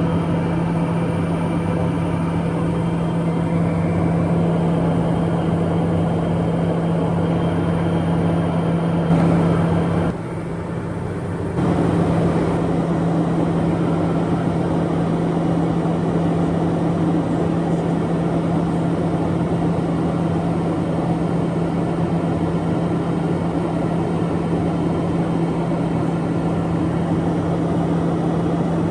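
Cabin noise of a Piper M600 single-engine turboprop in cruise: the Pratt & Whitney PT6A turbine and propeller give a steady drone with a strong constant low hum over a broad rush. It briefly drops quieter for about a second and a half around ten seconds in.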